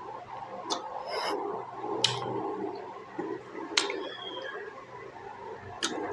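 Close-miked chewing and mouth sounds of someone eating juicy pork momos, with four sharp wet smacks spread through it.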